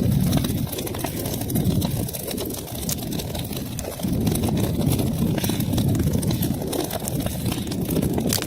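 Wood fire crackling in a fireplace: a steady low rumble of burning flames with frequent sharp pops and crackles scattered throughout.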